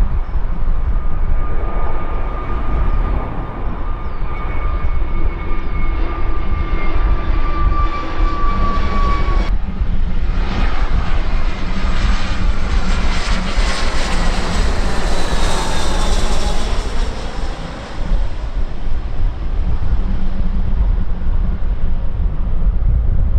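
Jet airliner passing the microphone: a whining fan tone that slowly falls in pitch, then a rushing jet noise that swells to a peak just past the middle and fades away. A steady low wind rumble on the microphone runs underneath.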